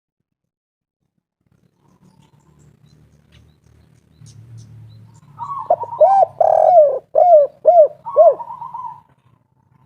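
Spotted dove (tekukur) cooing: about five seconds in comes a phrase of about six short, arched coos, opened and closed by a brief rolling trill. A faint low hum lies under it.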